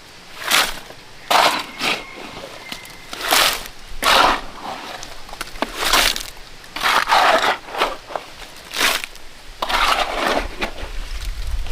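A shovel scraping and crunching through a gritty sand-and-cement mix in a series of irregular strokes, roughly one a second.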